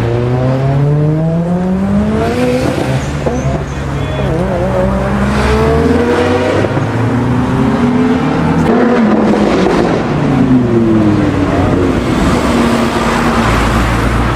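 A high-performance sports car engine accelerating hard, its revs climbing steeply in the first two seconds and again a few seconds later. From about eight seconds in, the pitch falls as a car passes by.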